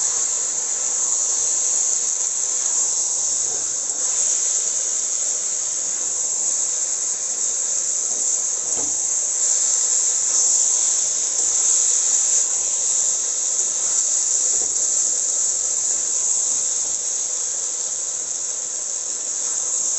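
Masala and vegetables in a steel wok sizzling steadily as the curry is fried down (kosha) and stirred, a continuous high hiss.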